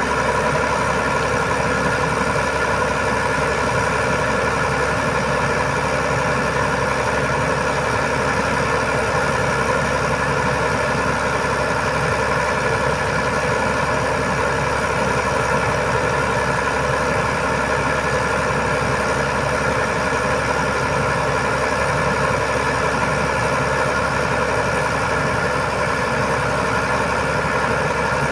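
Heavy truck engine idling steadily, an even unchanging drone with no revving or breaks.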